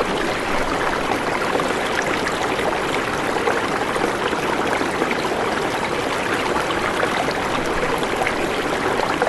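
Water running steadily with an even rushing sound.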